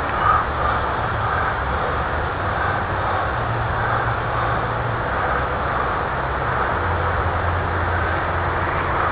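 Steady rushing outdoor noise with a low rumble, which looks like wind on the microphone, carrying the faint drone of a ParkZone P-51 Mustang RC plane's electric motor and propeller in flight, swelling and fading as it passes.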